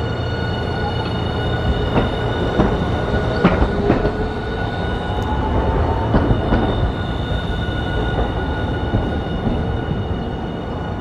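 Hiroshima Electric Railway streetcar moving through the tram stop: a steady high whine, scattered clicks and knocks from the wheels on the rails, and a motor tone gliding slowly upward from about three to seven seconds in.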